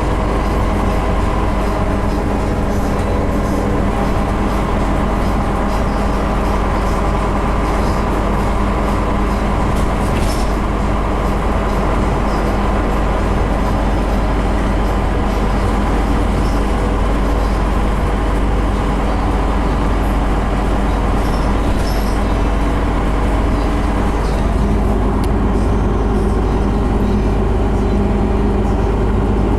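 Scania CN270UB city bus in motion, heard from on board: a steady engine drone and road noise, with the engine note shifting about 25 seconds in.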